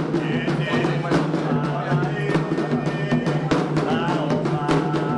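Candomblé ritual music for Xangô: atabaque hand drums playing a steady, dense rhythm under group singing, with a steady low hum beneath.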